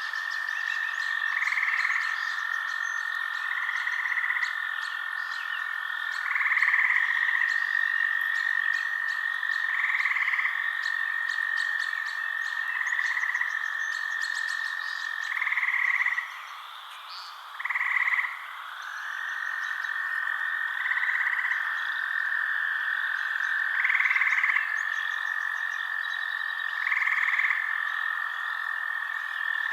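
Night-time frog chorus: a steady high trill that breaks off about halfway and resumes a few seconds later, with louder calls repeating every two to three seconds and faint fast clicking above them.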